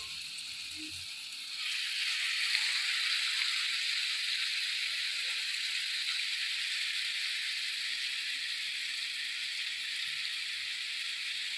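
Marinated chicken tikka pieces sizzling in shallow oil as they are laid into a frying pan; the sizzle grows louder about two seconds in, then holds steady.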